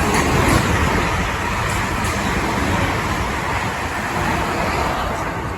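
A train running through the station: a steady rush of wheel and rail noise that swells at the start and eases off near the end.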